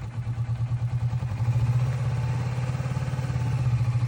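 Motorcycle engine running at low revs with a steady, evenly pulsing beat.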